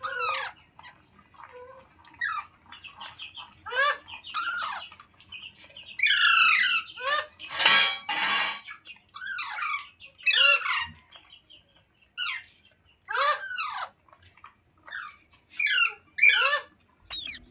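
Ringneck (rose-ringed) parakeet calling: a string of short, shrill screeches about every second or so, with one louder, harsher squawk about eight seconds in.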